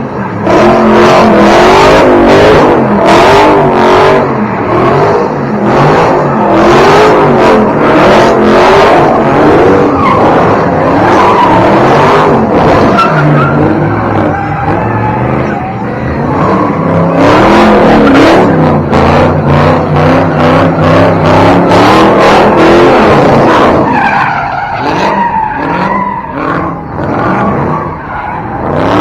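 A car spinning its tires at a car meet: loud tire squeal that wavers up and down in pitch over a running, revving engine. It dies down somewhat near the end.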